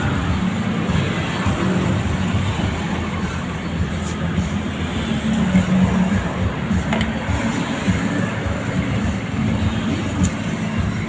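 Steady low rumble of motor vehicle engines and traffic, with a few faint light clicks.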